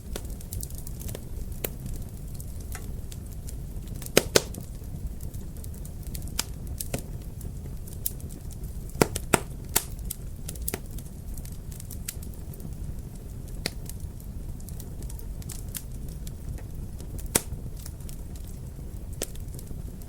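Wood fire in a fireplace crackling, with a steady low rumble under irregular sharp pops. A few louder pops come in pairs about 4 s and 9 s in, and a single one near 17 s.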